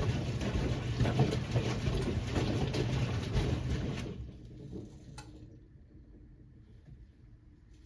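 1978 Siemens WA4600 washing machine running, with a low hum and the noise of the turning drum, then winding down and stopping about four seconds in; a single click follows about a second later.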